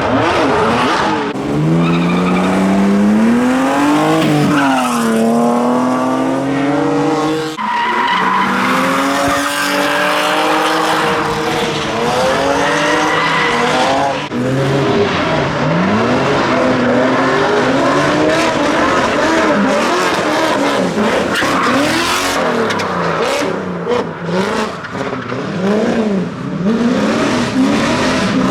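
Drift cars sliding under power, engines revving hard up and down over the screech of spinning tyres. The engine note changes abruptly twice, and in the second half it rises and falls in quick swoops about once a second as the throttle is worked through the slides.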